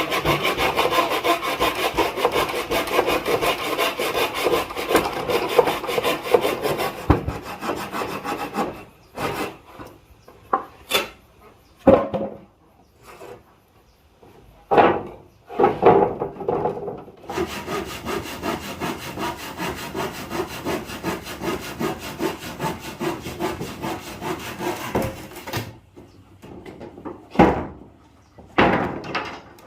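A hand saw cutting wood in two long spells of steady strokes. Between the spells and near the end come several sharp wooden knocks.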